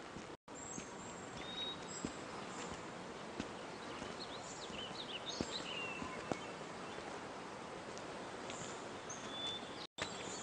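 Quiet outdoor ambience: a steady soft hiss with scattered short, high bird chirps and whistles.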